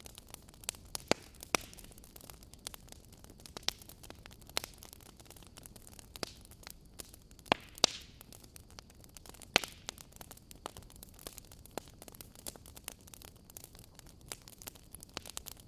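Wood fire crackling in a fireplace: irregular sharp pops and snaps over a low steady hiss, with a handful of louder pops.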